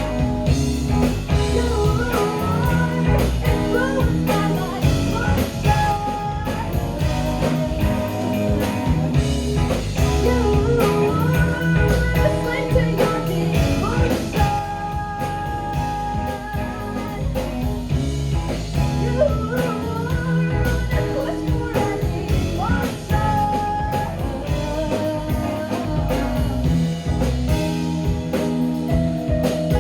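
A rock band playing live, with drums and a blues-tinged lead line that bends and wavers in pitch over a steady low end.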